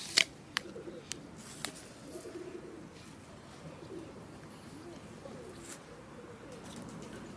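Pigeons cooing softly, with a few sharp clicks in the first two seconds.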